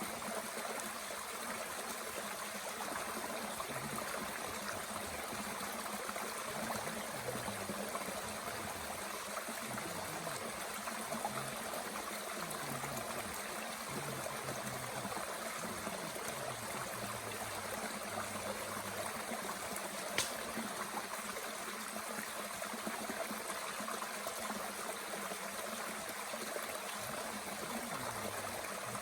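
Mountain stream flowing steadily, a constant rushing with a low burbling underneath. About twenty seconds in there is one sharp snap.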